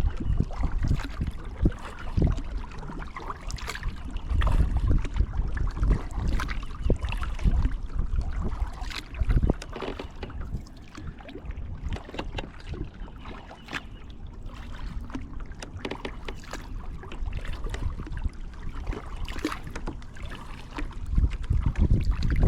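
Kayak paddle strokes dipping and splashing in the water, irregular and repeated, over a low uneven rumble of wind on the microphone.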